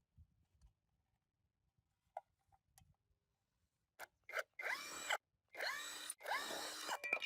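A small hand-held power tool run in several short bursts starting about four seconds in, its whine rising at the start of each burst.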